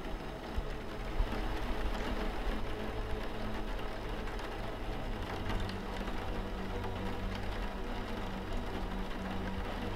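Steady rain falling on a window, with soft ambient music of held low notes underneath.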